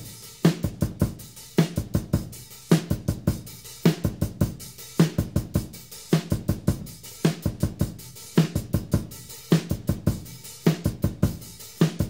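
A drum kit playing a steady rock beat alone, bass drum, snare and hi-hat, with a strong low hit about once a second.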